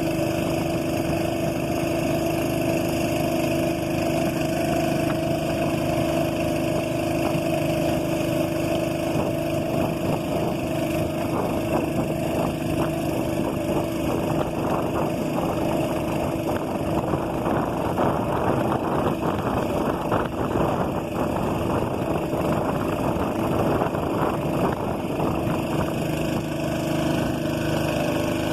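Boat engine running at a steady speed, its drone holding one pitch, with rougher splashing or wind noise over it through the middle.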